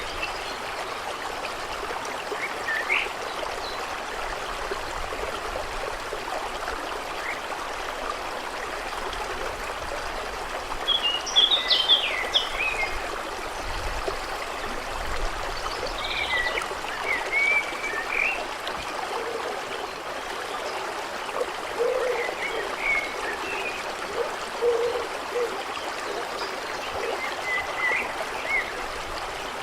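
A stream flowing steadily, with birds chirping in short bursts, busiest about a third of the way in. A few short, low calls join it in the second half.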